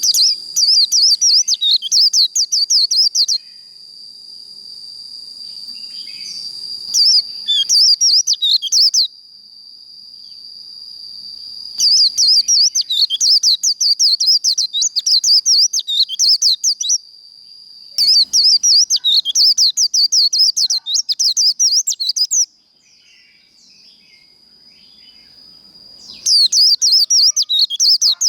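White-eye (vành khuyên) singing its fast, chattering 'líu' song in phrases of a few seconds with short pauses between, five phrases in all. Under it runs a steady high insect-like drone that drops away about two-thirds of the way through.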